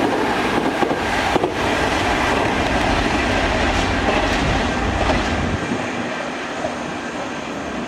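A Kintetsu Minami-Osaka Line electric train running past at the platform, wheels clicking over rail joints over a heavy rumble. The low rumble drops away about five and a half seconds in, leaving a lighter running noise.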